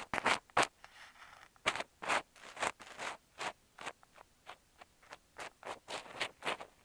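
Scratchy, scraping strokes made right on an earphone microphone, from kinetic sand and an ear pick used as ASMR triggers. The strokes come about two a second, uneven, with a softer rub about a second in.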